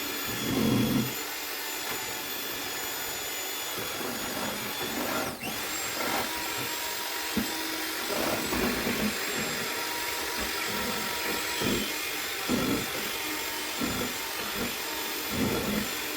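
A small electric motor whirring steadily, with occasional low bumps of handling over it.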